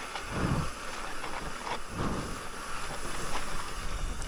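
Mountain bike rolling fast down a dirt trail: steady rush of tyre noise and wind on the microphone, with a few low thumps as the bike hits bumps.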